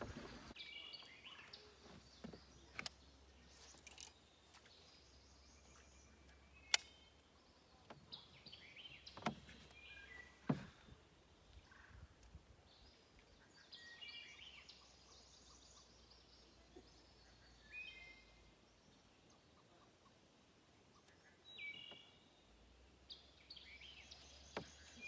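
Quiet riverside ambience with faint bird chirps: short bursts of chirping notes every few seconds. A few sharp clicks stand out, the loudest about seven and ten seconds in.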